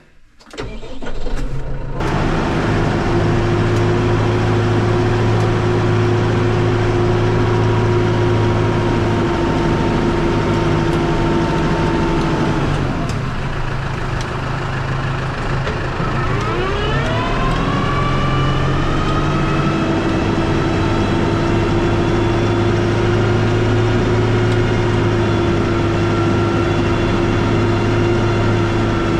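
New Holland T4.55 tractor running steadily with a whine. About 13 seconds in the revs drop, and a few seconds later they climb back up and hold.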